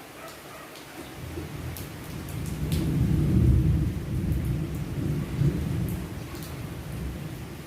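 Rolling thunder over rain: a low rumble builds about a second in, is loudest around three to four seconds, and fades away, with scattered drip ticks on top.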